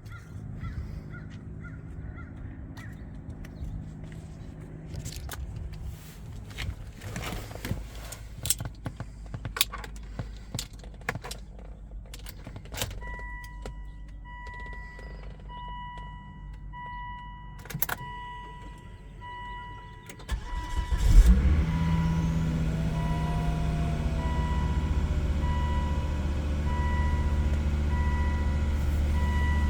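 Clicks and knocks of the car being got into and the key handled, then a warning chime beeping at an even pace. About two-thirds of the way through, the Volvo V70R's turbocharged five-cylinder cranks briefly and catches on a cold start, then settles into a steady idle.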